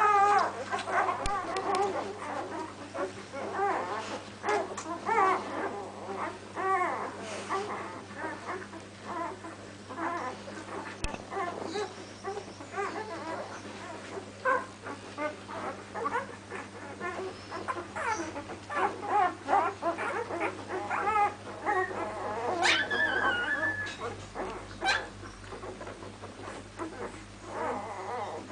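Newborn puppies, six days old, whimpering and squeaking almost without pause, many short rising-and-falling cries overlapping, loudest in the first couple of seconds. A steady low hum runs underneath.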